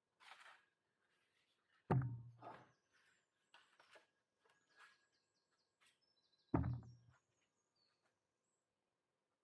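Two heavy thuds about five seconds apart, each with a short low ring, among light clicks and rustling of things being handled.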